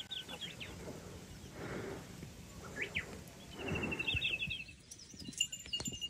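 Small wild birds chirping, with a rapid trill about two-thirds of the way in and more short chirps near the end; a few short soft hissing swells come between the calls.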